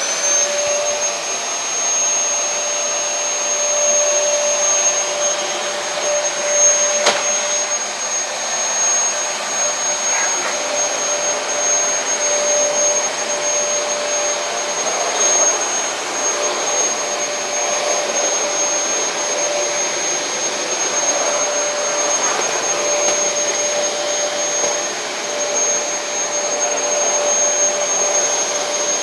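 Dyson DC33 upright vacuum cleaner switched on and running: its motor spins up and settles into a steady high whine over the rush of air, with a brief click about seven seconds in. It is working properly after being cleaned and reassembled.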